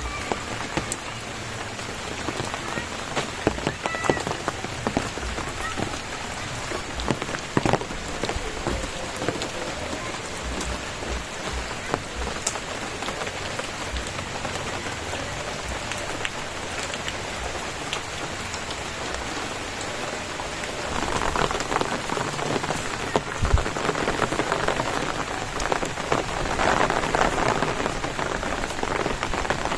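Steady rain falling, with scattered sharper drop hits close by; it grows louder about two-thirds of the way through.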